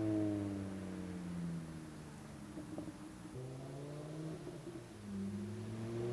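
VW Rabbit MKV's 2.5-litre five-cylinder engine heard through an AWE cat-back exhaust and USP test pipe (catless). The revs fall over about two seconds, hold low and steady, then rise again near the end.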